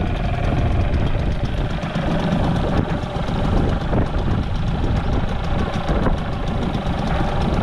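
4 hp Mariner outboard motor idling steadily, on its first run-in after a new impeller was fitted, since the motor has never been run before.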